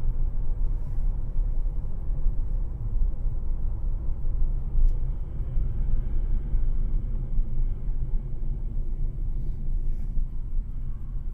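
Steady low rumble of a vehicle, dashcam-recorded road and engine noise with no distinct events.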